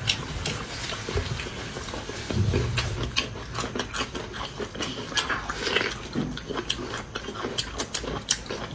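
Close-up chewing of braised pig large intestine: a rapid run of wet mouth clicks and smacks, with a low closed-mouth sound about two and a half seconds in.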